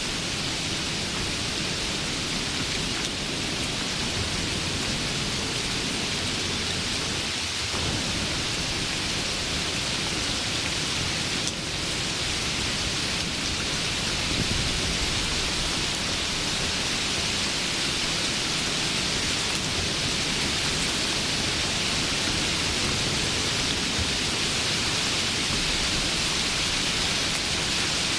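Steady rainfall, an even, continuous hiss, with a brief drop in level about twelve seconds in.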